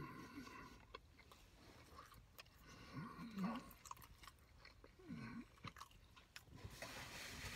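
Faint chewing of a mouthful of hot pastrami sandwich, with wet mouth clicks and a couple of short hums, around three and five seconds in.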